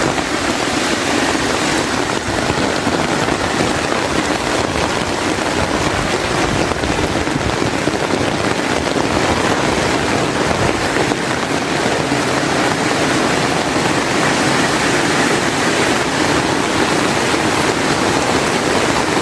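Heavy rain pouring down in a steady, dense hiss that stays even throughout.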